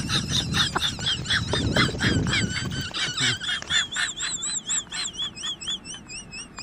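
Bird calls: a rapid series of short high chirps, about three to four a second, turning into longer warbling trills near the end, over a low rumble that fades out about three seconds in.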